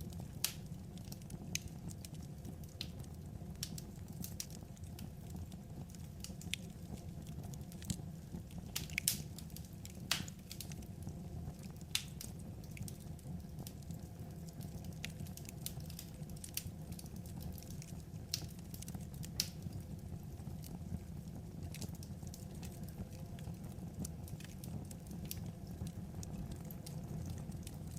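Wood fire crackling, with irregular sharp pops and snaps over a steady low rumble, a few louder pops around the middle.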